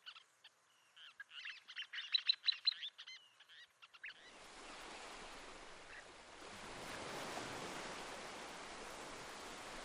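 Least terns calling in rapid, high chattering notes, then a steady rush of surf takes over from about four seconds in.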